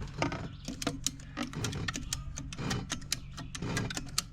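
Hand ratchets tensioning a skid steer's over-the-tire tracks, clicking rapidly and unevenly as the handles are worked in strokes about once a second. A steady low hum runs underneath.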